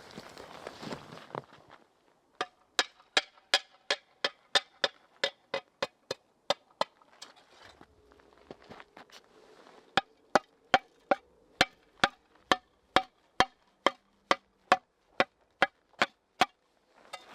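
Footsteps at the start, then steady chopping: two long runs of sharp knocks, about two to three a second, each with a short ringing tone, with a pause of a few seconds between them.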